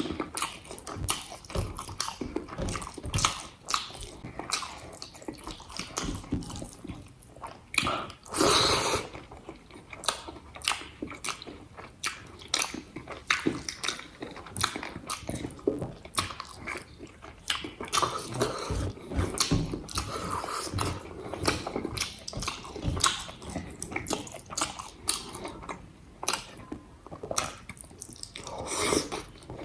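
Close-miked eating sounds: a person chewing and biting food, with many small wet mouth clicks and occasional crunches. There is one louder burst about eight seconds in.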